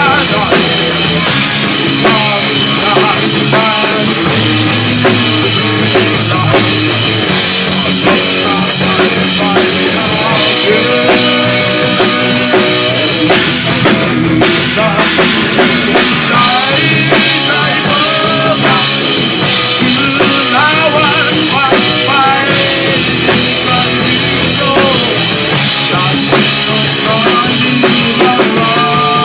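Rock band music: an instrumental passage with a full drum kit keeping a steady beat under a melodic lead line.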